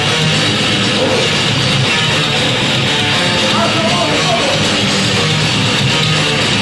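Heavy metal band playing live, loud and dense, with guitars to the fore.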